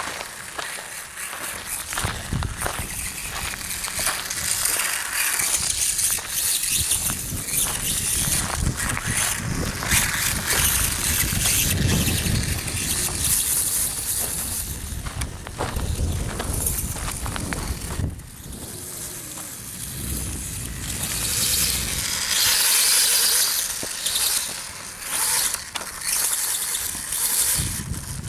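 Electric RC dirtbike driving over dirt and gravel. The motor's whine rises and falls with the throttle, and the tyres crunch and knock over the ground.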